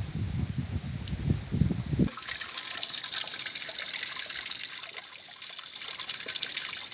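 Low, gusty rumbling on the microphone for about two seconds, then an abrupt change to heavy rain and running rainwater: a steady rushing hiss with a fine crackle.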